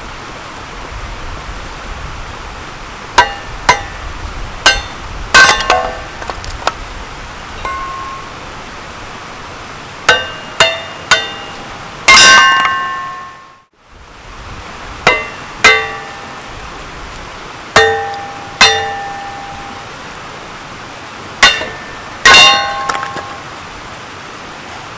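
A hammer striking firewood down onto a cast-iron Kindling Cracker to split kindling. The blows are sharp and ring briefly and metallically, coming in quick pairs and threes with pauses between; the sound drops out briefly about halfway through.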